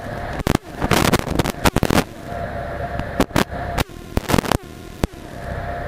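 Cessna 172 cabin noise with the engine pulled back to idle, broken by a rapid, irregular series of sharp cracks and knocks, thickest in the first two seconds.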